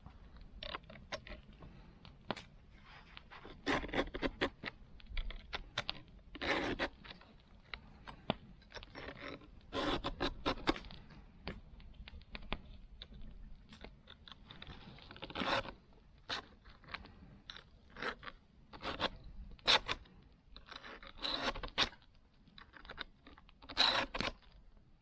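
Hand work on a saw: irregular scraping strokes, each a fraction of a second long, mixed with sharp clicks and small crunches.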